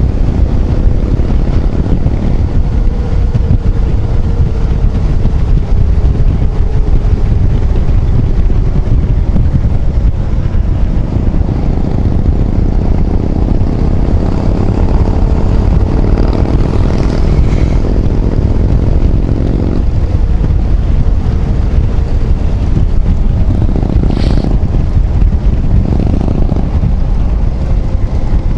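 Heavy wind buffeting on a rider's microphone while riding a Yamaha XMAX 250 scooter, its engine note rising and falling faintly underneath. A short, sharper sound stands out near the end.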